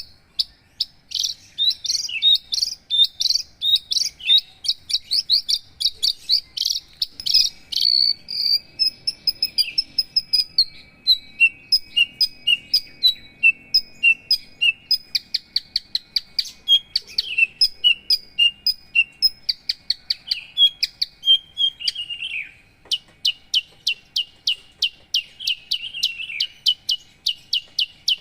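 Javan bush lark (branjangan) singing a long, fast song of rapid short chirps and whistled notes, with a brief break about three-quarters of the way through.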